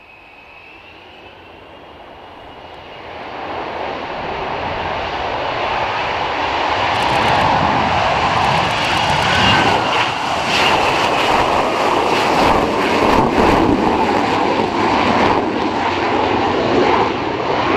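Jet noise of a Lockheed Martin F-35B Lightning II on its short-takeoff run. The noise builds from faint to loud over the first several seconds, then stays loud and rough.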